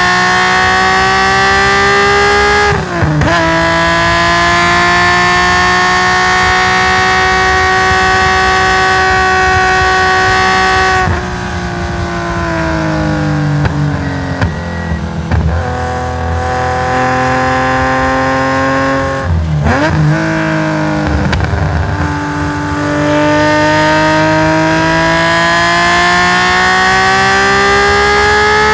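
Race-tuned Nissan S20 twin-cam straight-six in a Skyline GT-R racing flat out: the revs climb, drop sharply for an upshift through its sequential gearbox about three seconds in, then climb and hold high. About eleven seconds in the throttle closes and the revs fall, with short blips on the downshifts, before the engine pulls hard and climbs again near the end.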